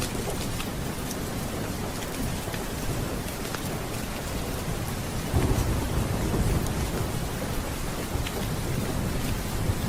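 Steady rain with a low roll of thunder that swells about five seconds in and fades over the next couple of seconds.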